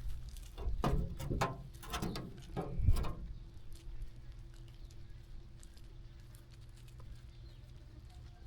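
Sheep moving about while grazing: a quick run of short hoof steps and scuffs over the first three seconds, then quieter, with a faint steady hum underneath.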